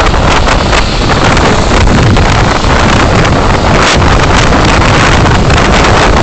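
Loud, steady wind and road rush from a moving vehicle, picked up by a dashcam microphone, with wind buffeting the mic.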